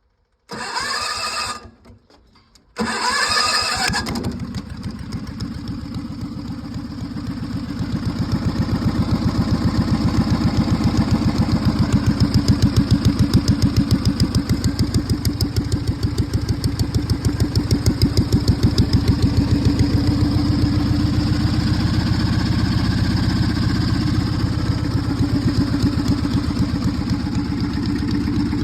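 John Deere 400 lawn tractor engine cranked twice by its starter, catching on the second try about three seconds in, then running steadily with an even pulse. It picks up a little from about eight seconds on.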